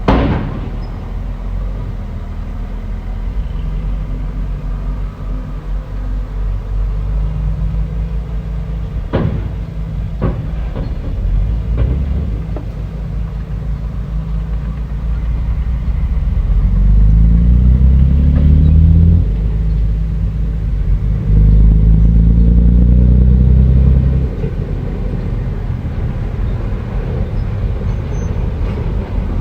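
Bulldozer's diesel engine running, revving up and working harder twice, about 16 and 21 seconds in, with a couple of sharp metallic knocks about 9 and 10 seconds in.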